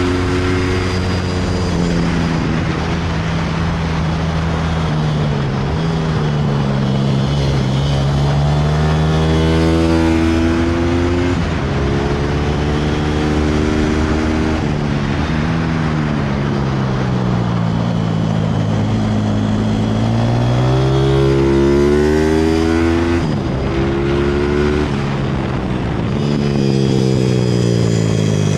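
A 160cc pit bike's single-cylinder engine being ridden hard around a kart track. Its pitch climbs on each acceleration and drops off into the corners, over and over.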